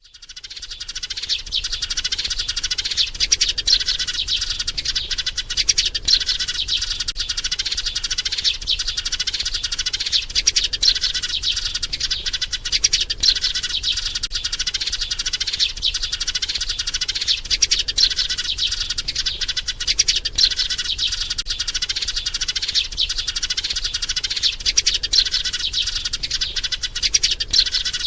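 Sparrow chirping rapidly and without pause in dense runs of short high chirps, fading in over the first second. The calls are those of a nearly mature sparrow calling for a mate, used as a lure call to draw other sparrows in.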